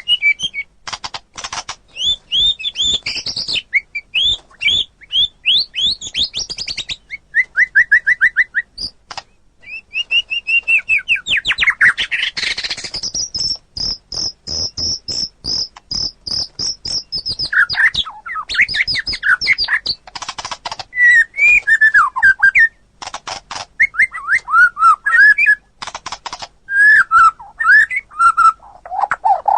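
White-rumped shama singing a long, varied song: quick whistled phrases and pitch glides, mixed with rapid clicking or rattling notes. Near the middle it holds a high, fast trill for about five seconds.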